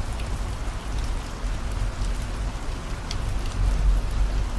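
Steady rain with scattered drops, over the low, even rumble of a car driving on the road.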